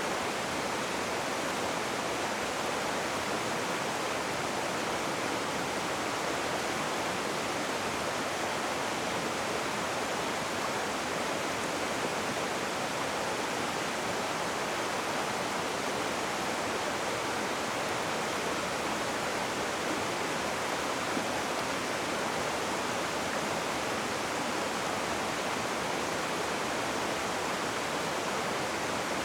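Rushing river water: a steady, even rush of flowing water with no breaks or changes.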